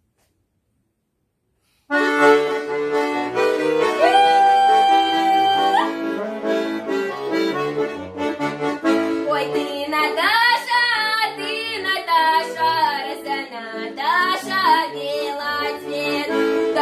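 Accordion playing the instrumental introduction to a Russian folk song, with a bass-and-chord accompaniment under a melody. It starts about two seconds in, after silence.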